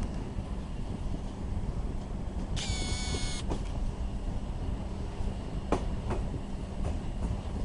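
Passenger train running: a steady low rumble with a few faint clicks. About two and a half seconds in comes a brief high-pitched squeal lasting just under a second.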